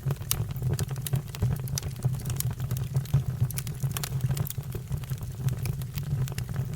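Fire crackling, with frequent irregular sharp pops and snaps over a low steady rumble.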